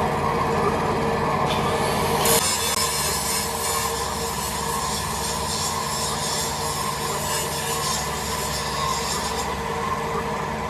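Metalworking machinery running with a steady hum. About two seconds in, a harsh, hissing rasp of metal being cut or abraded joins it, and stops about a second before the end.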